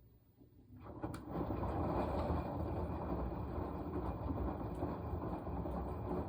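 Washing machine in its wash cycle: after a quiet pause, the drum starts turning about a second in with a click and a steady churning rumble of tumbling laundry and water, which stops near the end.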